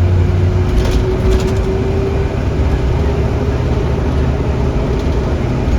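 Cabin noise of a 2017 Blue Bird Vision school bus under way: a steady low engine and road drone with a thin, steady whine over it.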